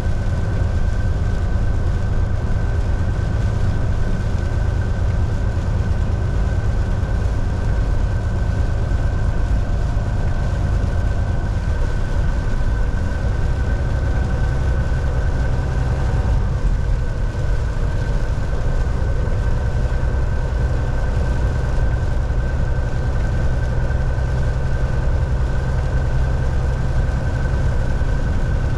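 Volvo VNL 760 semi truck driving, heard from the driver's seat: a steady low engine drone mixed with road and tyre noise, with a thin steady whine on top.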